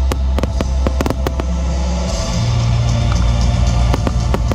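Fireworks bursting in a rapid run of sharp bangs and crackles, thickest in the first second or so, over loud music with drums and a heavy bass.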